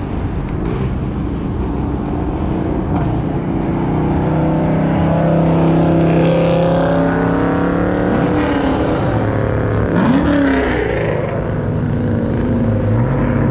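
Several Dodge Charger V8 engines running at once with a steady note. One revs up sharply about eight seconds in and again about two seconds later, and there is another rise near the end.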